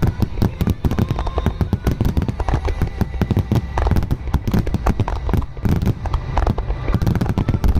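Fireworks display: a dense, rapid run of bursts and crackles, many reports a second over a continuous low rumble.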